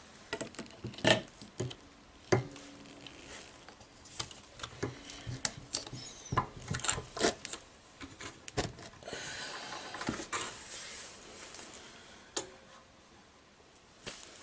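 Irregular clicks, taps and knocks of tools and plumbing parts being handled, the sharpest about a second and two seconds in, with a stretch of rubbing or scraping a little past the middle.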